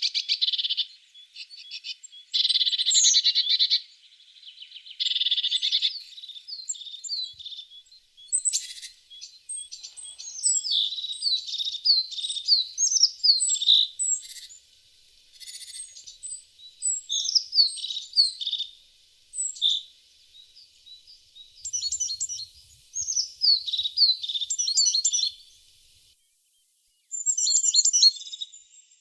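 Tit singing in repeated phrases: dense, fast trills at first, then runs of quick, high, descending notes, with short pauses between phrases. The sound drops out to silence for about a second near the end.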